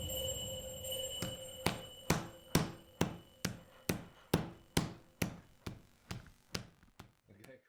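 Evenly spaced knocking percussion strikes, about two a second, over faint sustained tones, fading out and stopping near the end.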